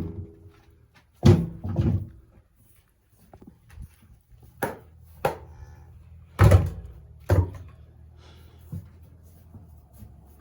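Wooden thuds and knocks, about eight at irregular spacing, the loudest at the start and about six and a half seconds in: boards or wood being handled and set down in a barn.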